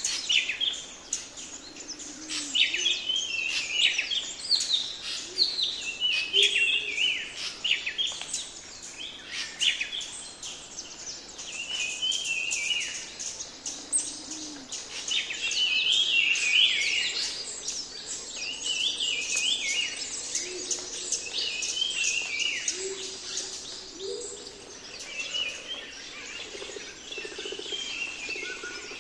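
Birdsong: several small birds chirping and twittering in quick, overlapping calls.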